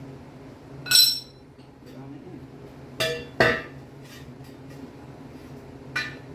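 Metal clanks from tools or parts being handled: four sharp strikes, the first ringing briefly and the middle two close together, over a steady low hum.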